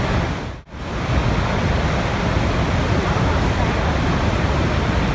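Steady rushing water, a dense even hiss, that drops almost to silence for a split second a little over half a second in before resuming.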